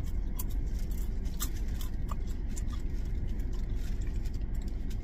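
Popcorn being chewed, with a scatter of small crunches and the crinkle of a plastic snack bag, over a steady low hum of the car cabin.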